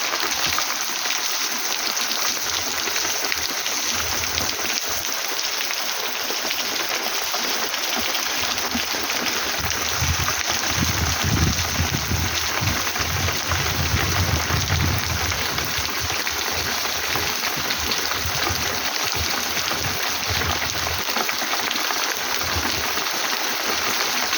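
Steady heavy rain falling. About ten seconds in, a low rumbling swells for several seconds and then fades.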